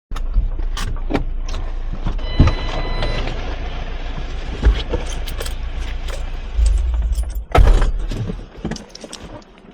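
Truck running with a steady low rumble, with scattered knocks and rattles; a heavier knock about three-quarters of the way in, after which the sound drops away.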